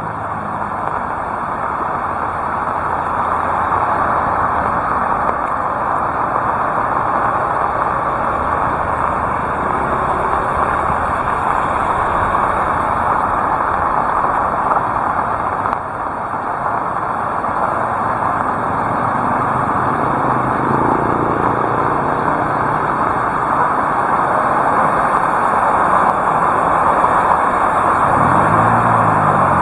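Heavy rain falling steadily as a dense hiss, growing a little louder. Near the end, a motor vehicle's engine passes, its pitch sweeping.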